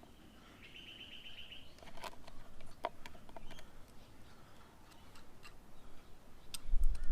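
Light scattered clicks and ticks from hand work on the motorcycle's fork leg, with a short high bird trill about a second in. A low rumble comes in near the end.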